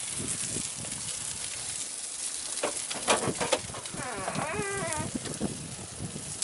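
A burning car crackling and popping, with a steady rushing hiss of flames and a burst of sharp pops a little before the middle. About four seconds in, a wavering, bleat-like call lasts about a second.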